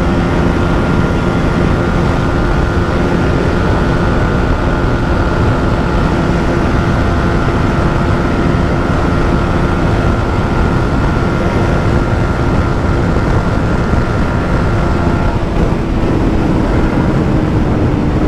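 Yamaha MT-15's 155 cc single-cylinder engine running steadily flat out near its top speed, with heavy wind rush on the microphone.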